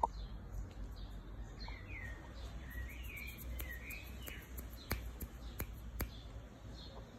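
Small birds chirping: short, repeated, falling chirps with a few wavering calls among them. Three sharp clicks come in the second half.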